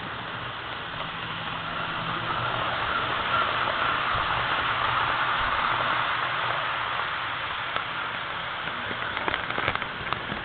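HO scale model train running on its track: a steady rolling hiss with a faint motor hum that swells as it passes close and then eases off, with a few sharp clicks near the end.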